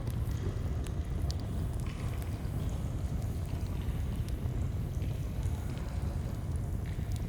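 Steady low rush of a flowing stream, with faint, scattered crackles of a campfire.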